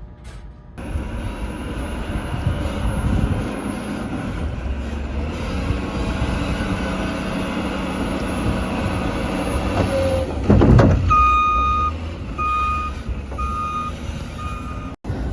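Large truck's engine running, with a loud burst of noise about ten seconds in. A reversing alarm then beeps four times, about once a second.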